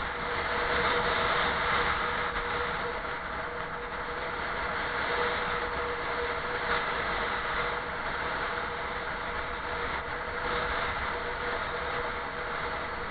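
Steady running noise of a vehicle driven into heavy wind: an even rush of wind and road noise over a constant mid-pitched engine hum.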